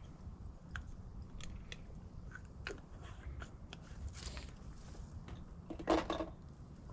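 Wind rumbling on the microphone under scattered small clicks and crunches of coffee-making gear being handled, with a louder clatter about six seconds in.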